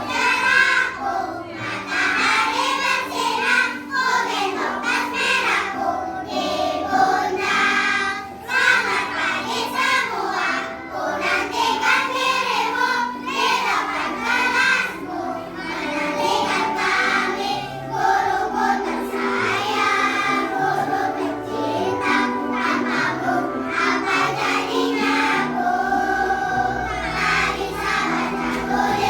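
A choir of second-grade primary-school children singing a song together.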